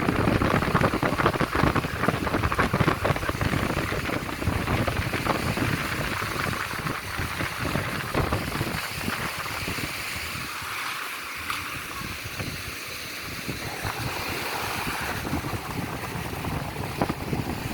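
Sea surf washing on a beach with wind buffeting the microphone, the gusty rumble heaviest in the first few seconds and easing about halfway through.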